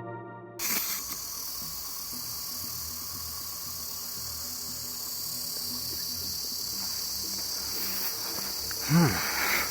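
Steady high-pitched chorus of insects, after background music cuts off about half a second in. A brief pitched sound rises and falls near the end.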